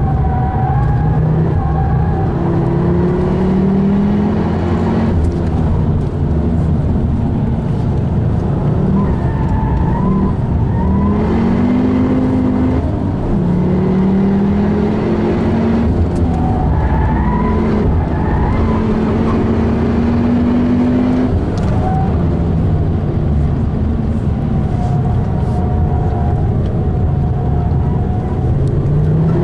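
Ford Focus RS's turbocharged engine heard from inside the cabin while driven hard: the pitch climbs under full acceleration, drops sharply at each gear change, and falls away when the throttle is lifted, again and again.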